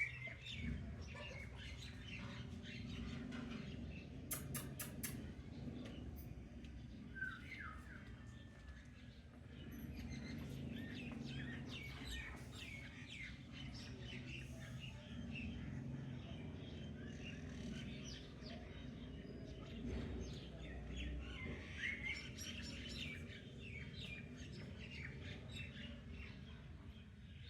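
Pet parrot chirping in many short, high chirps over a low steady hum, with a few sharp clicks about four seconds in.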